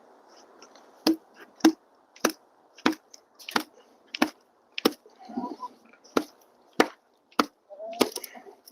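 A steady series of sharp chopping or knocking strikes, about a dozen, roughly one every 0.6 s, starting about a second in.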